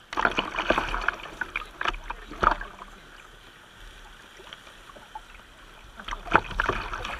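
Kayak paddle strokes: splashing and knocking of the paddle in the water, in a bout of strokes that starts suddenly just after the start and lasts about two and a half seconds, then a quieter spell and another bout from about six seconds in.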